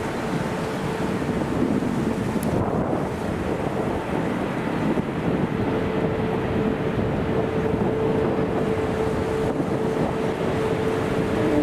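Steady rumble of a jet airliner's engines with wind buffeting the microphone. A steady hum in the engine noise grows stronger over the second half.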